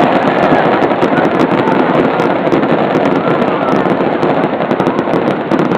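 Fireworks barrage: a dense, continuous run of rapid bangs and crackling with no break.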